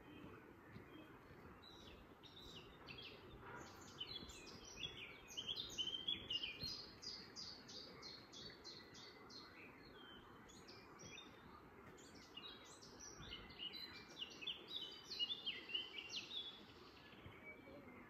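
Songbirds singing in two long stretches of quick high chirps, the first about four seconds in with a fast run of repeated notes, the second near the end, over a faint steady low background noise.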